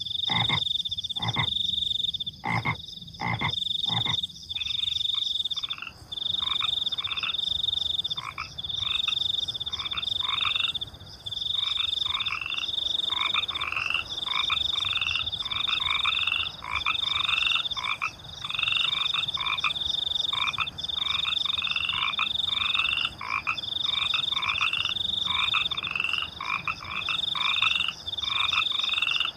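Night chorus of frogs calling in short, repeated croaks about twice a second, over a steady high-pitched cricket trill. A few fuller, deeper pulses come in the first four seconds.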